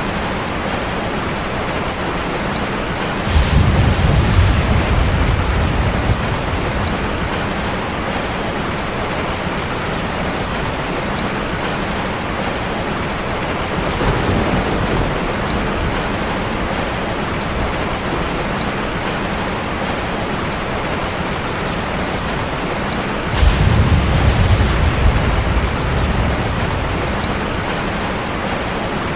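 Steady heavy rain with rolling thunder: a sudden low rumble about three seconds in, a fainter one midway, and another strong rumble near the end, each dying away over a few seconds.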